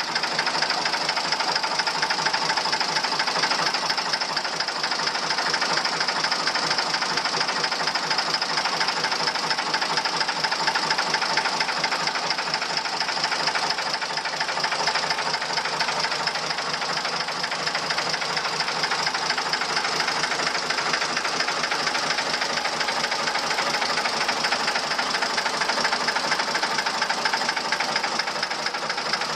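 Vintage Lister JP3 three-cylinder diesel engine running steadily, with a fast, even knocking beat.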